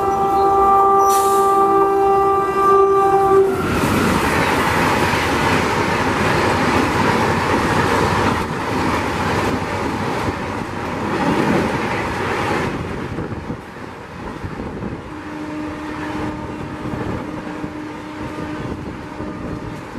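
Train horn sounding a steady chord of several tones as an express approaches behind an electric locomotive; the horn cuts off about three and a half seconds in. Then the express runs through at speed, a loud rushing rumble of wheels and coaches that eases off in the last few seconds.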